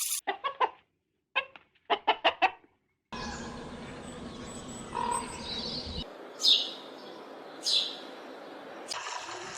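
Bird calls: a quick run of short calls in two groups, then, after an abrupt change to a steady background hiss, two short high calls falling in pitch about a second apart.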